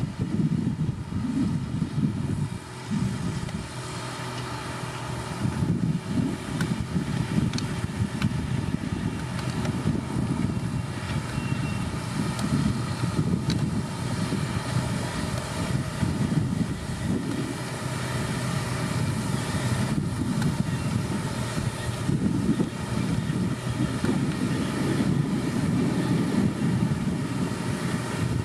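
Heavy diesel construction machinery running, a continuous low engine drone with a steady hum.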